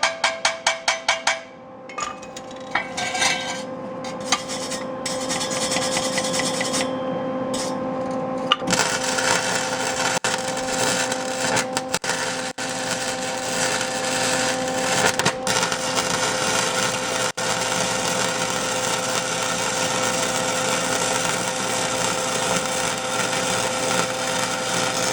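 MIG welder running a bead on an exhaust pipe: a steady crackle that starts about nine seconds in and runs on without a break, after some short clicks and scattered bangs at the start.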